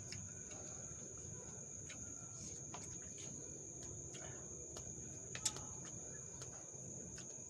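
Crickets trilling steadily in one continuous high-pitched tone, with scattered faint clicks and one sharper click about five and a half seconds in.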